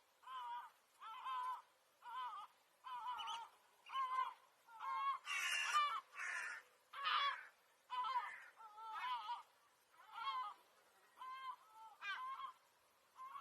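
A bird calling over and over, short honking calls about once a second, each with a wavering pitch; the calls grow louder and harsher around the middle.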